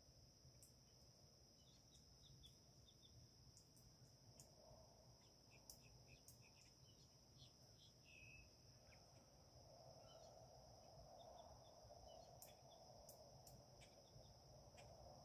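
Very faint lakeside ambience: short, scattered small-bird chirps over a steady high-pitched drone, with a soft rushing that grows a little louder about two-thirds of the way through.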